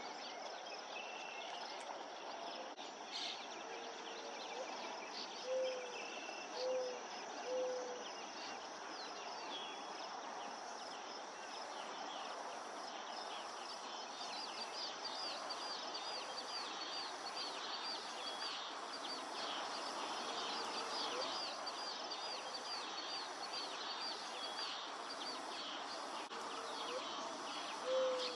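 Outdoor summer ambience: insects buzzing in a high, steady drone that pulses about once a second, with many small bird chirps. A low call of three short notes sounds twice, about five seconds in and again at the very end.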